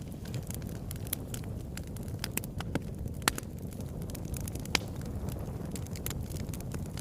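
Fire burning in a fireplace, crackling with frequent sharp pops and snaps over a low, steady rumble. Two pops stand out louder, one about halfway through and another a second and a half later.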